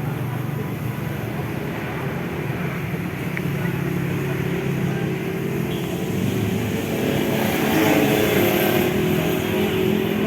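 Engine noise that slowly grows louder, its low hum rising gently in pitch over the second half.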